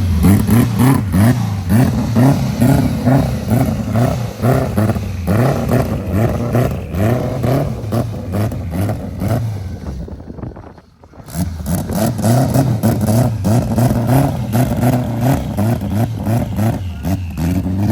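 Car engine revving hard over and over, with rapid popping and crackling. It drops away briefly about ten seconds in, then revs again.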